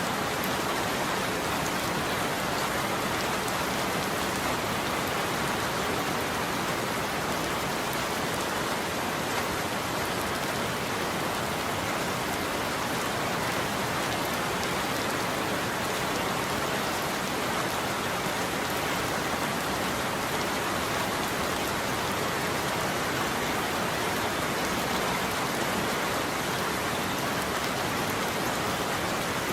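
Steady heavy rain falling, an even hiss of many drops with no thunder heard.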